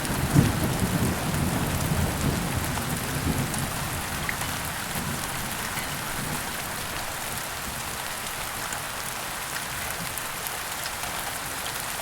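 Steady heavy rain with a low thunder rumble dying away over the first few seconds.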